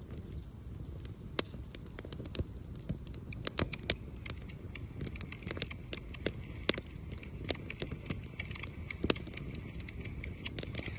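Wood campfire crackling, with irregular sharp pops and snaps over a low, steady rush of the burning fire.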